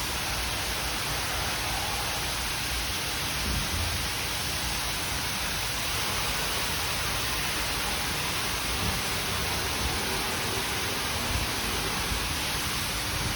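Steady rushing hiss of water spray in an Istobal Restyle rollover car wash, with a few faint low thuds.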